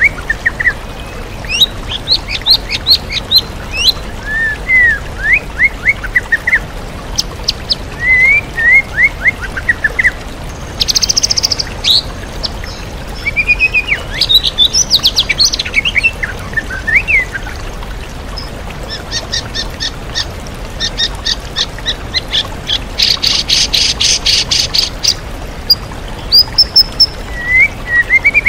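White-rumped shama (murai batu) singing a varied song of short whistled phrases and mimicked calls, with fast dry rattling phrases about two-thirds of the way through. Underneath is the steady rush of a waterfall.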